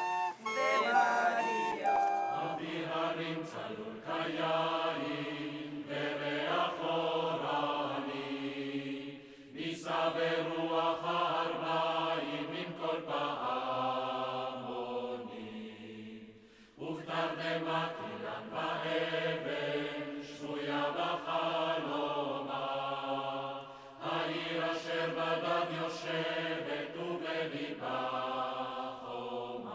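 A choir singing slowly in long held notes, phrase by phrase, with short breaks between phrases about a third, halfway and four-fifths of the way through. A recorder's last notes fade out at the very start.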